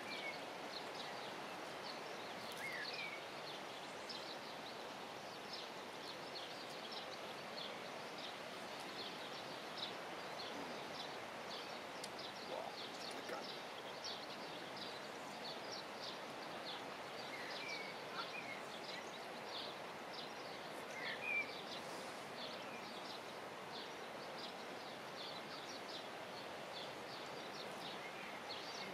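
Small birds chirping over a steady outdoor background hiss, with many short high chirps and an occasional brief sliding call.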